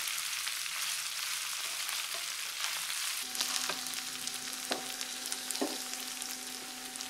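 Corned beef and diced potatoes sizzling and crackling as they fry in oil in a nonstick pan, stirred with a wooden spatula at first. A faint steady low tone joins the sizzle about three seconds in.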